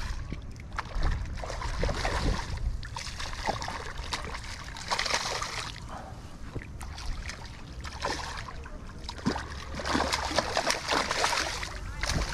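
Shallow water splashing and sloshing around a hooked redfish being fought on light tackle, coming in irregular flurries with the strongest splashes about five seconds in and again near ten seconds.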